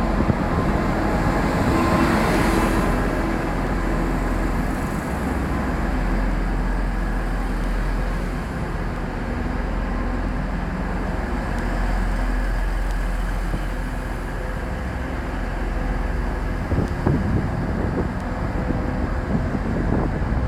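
TransPennine Express Class 185 diesel multiple unit pulling into the platform. Its diesel engine and running gear make a steady noise with a low hum underneath.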